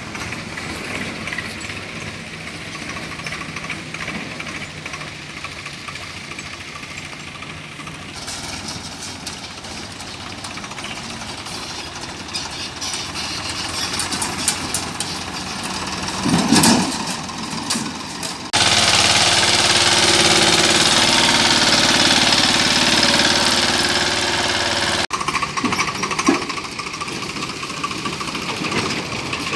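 Tractor running under load as it pulls a loaded trolley, a steady mechanical drone with a knocking quality. About two-thirds of the way in, a loud even rushing noise sets in suddenly, lasts several seconds, then cuts off and the drone returns.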